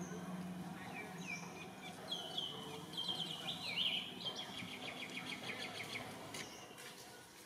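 Birds chirping, with short falling chirps and then a quick run of repeated high notes over a few seconds, which fades toward the end.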